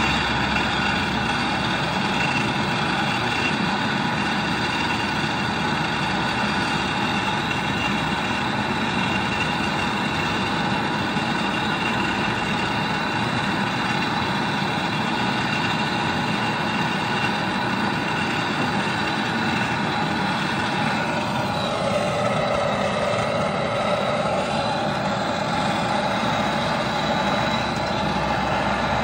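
A machine running steadily with a constant hum of several tones, which shift slightly about 21 seconds in.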